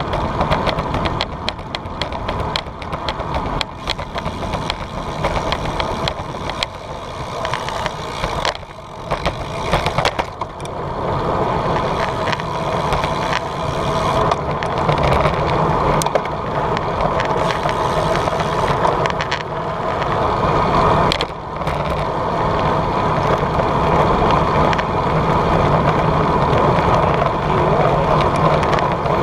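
Bicycle rolling along a road: steady tyre-and-road rumble with frequent small rattles and clicks, easing off briefly twice.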